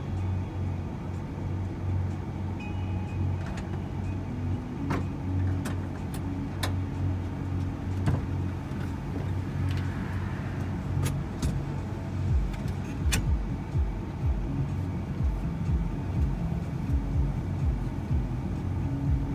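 Shuttle van driving, with a steady low engine and road rumble. Scattered sharp clicks and rattles come between about 5 and 13 seconds in, and from about 12 seconds the low rumble turns uneven and bumpy.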